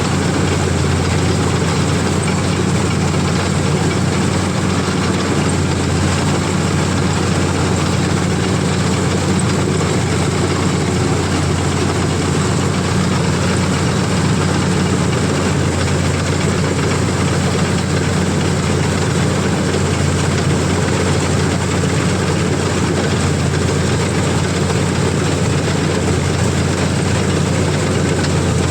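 CLAAS combine harvester's diesel engine running steadily at a constant pitch.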